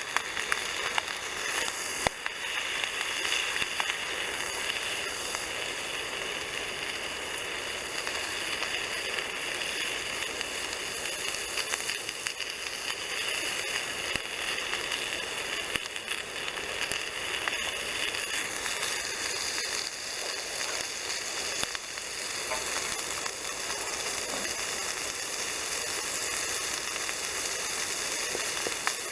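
Bacon and sausages sizzling in a frying pan over a campfire: a steady hiss with a few sharp pops now and then.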